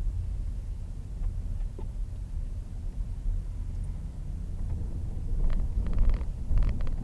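Low, steady rumble of a vehicle running, with wind on the microphone; a run of short clicks and rattles begins about five and a half seconds in.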